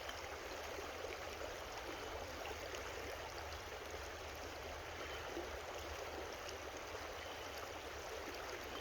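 A creek running steadily over rocks, a constant rushing and trickling of water.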